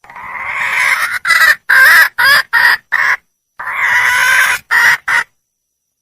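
Wild junglefowl hen calling for a male. A drawn-out call swells over about a second and is followed by four or five short clucking notes. After a brief pause comes another long call and two short notes, then it cuts off.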